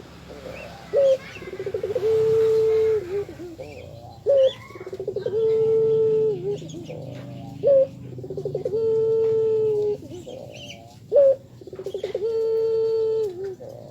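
Puter dove (Barbary dove) cooing: four identical calls about three seconds apart, each a short sharp note, then a quick rolling run, then a long held coo that dips at its end. Faint chirps of small birds sound between the calls.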